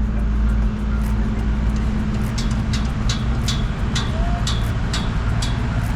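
Steady engine rumble of road traffic and site machinery, with a run of sharp clicks about two to three a second starting about two seconds in.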